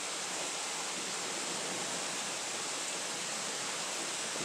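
Rain falling steadily in a thunderstorm, an even hiss with no thunder.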